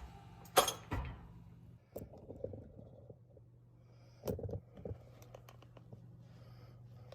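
A few short metal clinks and knocks from hand tools and parts being handled, in bursts about half a second in, a second in, two seconds in, and a cluster a little past four seconds. A steady low hum runs underneath.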